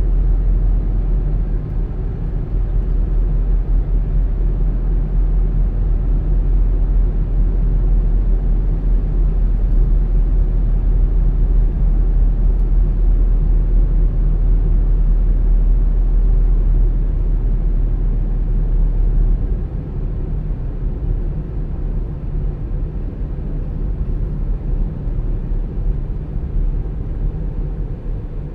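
A car driving: a steady low rumble of engine and tyres on the road, which drops somewhat about two-thirds of the way through.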